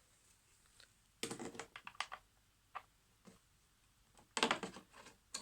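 Irregular light clicks, taps and clatters of small hand tools being handled and worked on a small object, in several short clusters.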